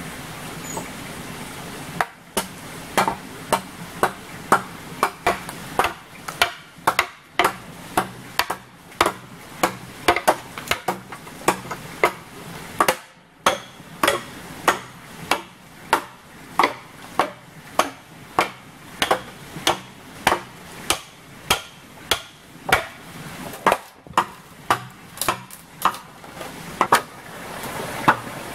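A hand tool striking a hard material again and again, a little under two sharp blows a second, with a brief pause about halfway through.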